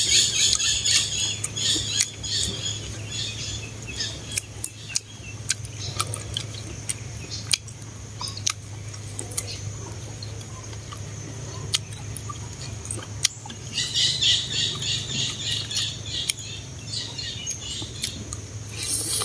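Close-up eating sounds, chewing with sharp mouth clicks, while birds chirp in rapid clusters near the start, again about 14 seconds in and just before the end, over a steady low hum.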